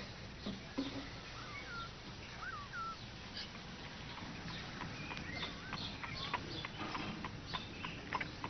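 Faint bird chirps, a few short calls early on, then a long string of light clicks and taps.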